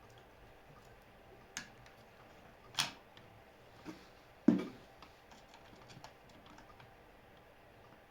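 A few separate clicks and knocks of hard objects against one another. There is a sharp click near the start of the second half and a duller, heavier knock just after it, which is the loudest sound, followed by a few faint ticks.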